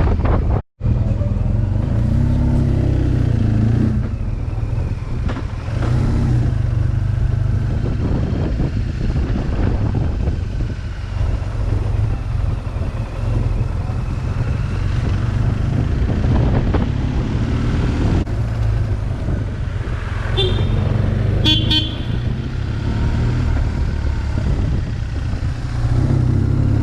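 BMW R 1200 GS boxer-twin engine with an SC Project exhaust running steadily on the road, with wind rush. Near the end a vehicle horn sounds in a few short beeps.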